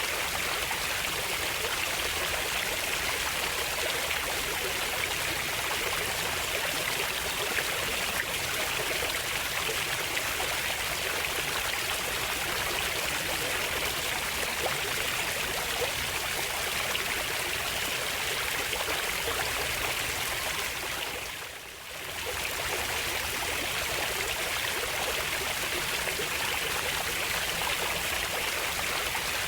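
Steady sound of a flowing stream, with the water briefly dropping away about two-thirds of the way through.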